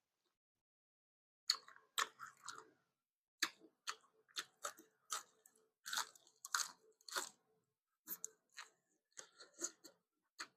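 Close-miked chewing of steamed lemongrass chicken: short wet smacks and crunchy clicks of the mouth, two or three a second in an uneven rhythm, starting about a second and a half in.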